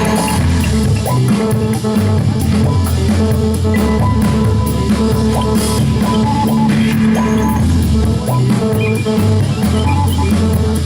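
Live indie rock band playing an instrumental passage: drum kit keeping a steady beat under guitar and sustained held tones.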